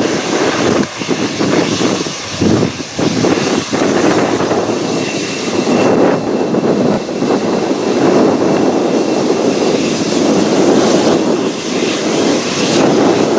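Jet airliner engines running loud and steady, with a faint high whine in the middle.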